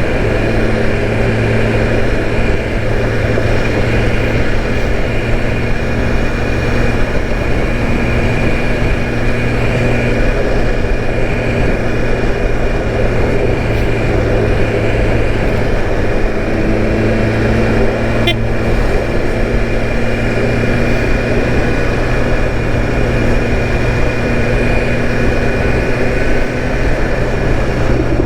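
BMW S1000RR M's inline-four engine running at a steady speed while under way, with steady wind rush over it and no revving or gear changes.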